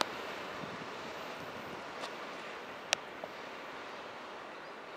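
A freight train moving away along the tracks, a steady rushing noise slowly fading. Two sharp clicks come about two and three seconds in, with a fainter one just after.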